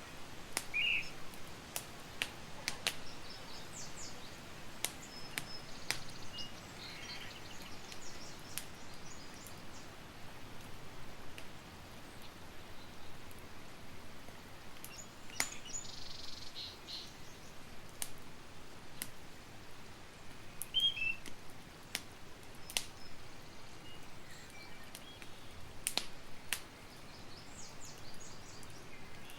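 Campfire burning with sharp, irregular crackles and pops over a soft hiss, one every second or two. Birds chirp briefly now and then.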